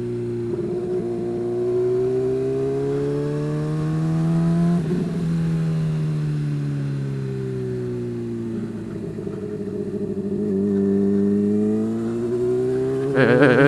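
Honda CBR sport motorcycle engine under way, the revs climbing through a gear for the first few seconds, dropping briefly at a shift about five seconds in, then easing off. The revs rise again and fall back near the end.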